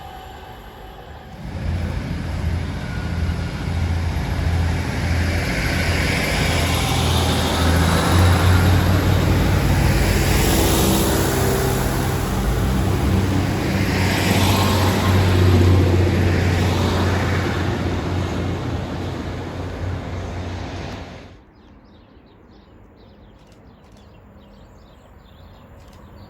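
A train running through the station: a loud, steady low hum with rumbling and shifting higher noise that starts about a second and a half in and cuts off abruptly near the end, leaving a much quieter background.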